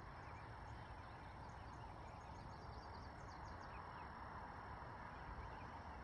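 Faint outdoor ambience: a steady low rumble and hiss, with faint, scattered bird chirps from about a second in to about four seconds in.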